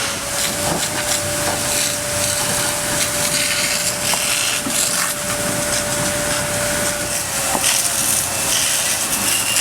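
Truck trailers burning with a steady hiss and frequent crackles and pops. A steady whine runs under it and stops about seven seconds in.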